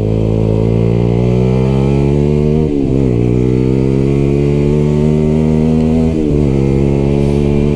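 Lexmoto LXR 125 sport motorcycle's single-cylinder engine through an aftermarket exhaust, very loud, pulling up through the gears. The engine note rises steadily, dips at an upshift about three seconds in and again about six seconds in, then climbs again.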